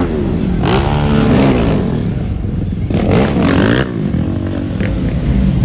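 Car engine revving twice over a steady low idle rumble: it climbs and drops back about a second in, then again about three seconds in.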